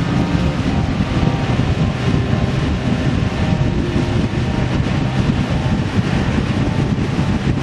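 A vehicle engine running steadily while on the move, under heavy wind noise on the microphone.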